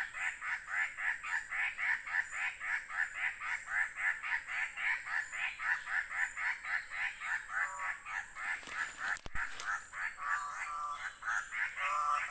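A bird calling a fast, steady series of short repeated notes, about four or five a second. From about eight seconds in, lower, fuller calls break in a few times, and there is a single sharp click just after nine seconds.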